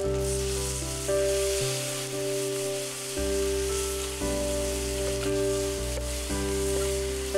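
Dried shrimp and garlic sizzling in hot oil in a frying pan, stirred with a metal utensil near the end. Background music of held notes runs underneath, changing every second or two.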